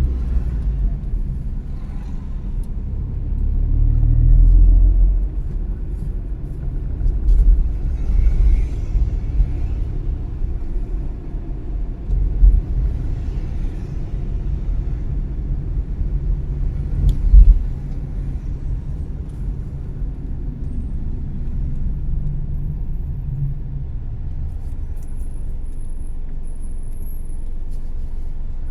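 Car driving on city streets: a steady low rumble of engine and road, with a few louder low thumps along the way.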